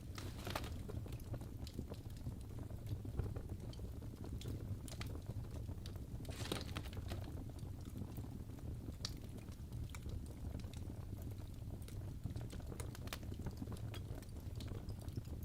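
Wood fire burning in a fireplace: irregular sharp crackles and pops over a steady low rumble of the flames, with two brief louder hisses, about half a second in and about six and a half seconds in.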